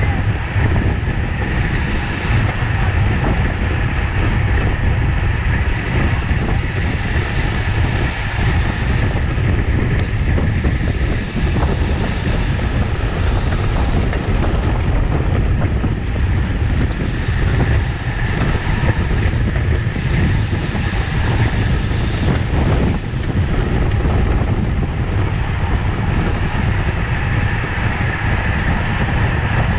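Steady wind rushing over the microphone of a camera riding on a moving road bicycle.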